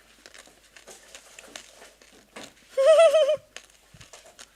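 Faint crunching and clicking of a person chewing fruit seeds, with a short, loud, wavering hummed "mmm" about three seconds in.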